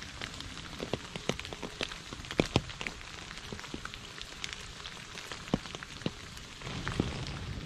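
Rain falling on a shallow puddle and wet leaves: a steady patter with many separate drops plinking into the water. It grows a little louder near the end.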